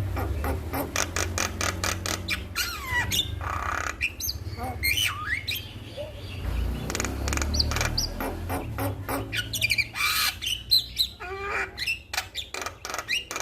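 Male Javan myna singing a busy, varied song of harsh squawks, rapid clicks and whistled gliding notes, over a low steady rumble.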